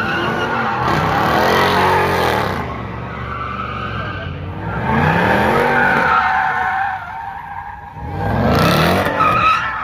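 Car engine revved hard while the tyres spin and squeal, with the revs rising and falling in three surges.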